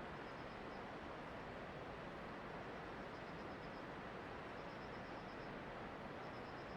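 A steady, even rushing noise of typhoon weather, rain and wind, with no gusts or breaks. Faint runs of rapid high ticks recur about every second.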